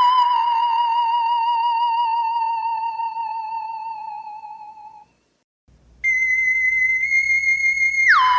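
An iPhone ringtone: a synthesised electronic tone with a slight waver, fading out over about five seconds. After a second of silence it starts again on a high held note, and near the end it glides down an octave.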